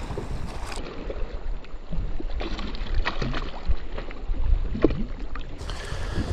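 Scattered light knocks and handling noises aboard a kayak over a low rumble, as a caught bass is handled.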